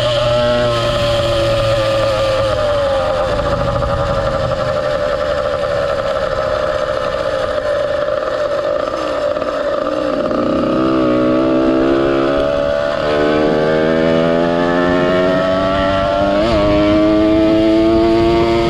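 Ported 100cc two-stroke motorized-bicycle engine with an expansion-chamber pipe, running under way. Its note sinks slowly for about ten seconds as it eases off, then climbs sharply as it is throttled up, rising steadily on through the rest.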